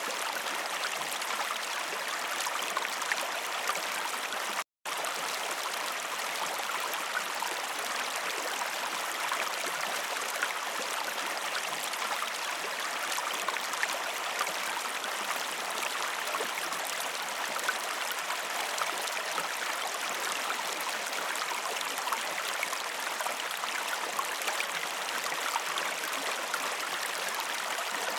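Waterfall rushing: a steady, dense spray of falling water with no low rumble. About five seconds in, the sound cuts out completely for a fraction of a second and then resumes.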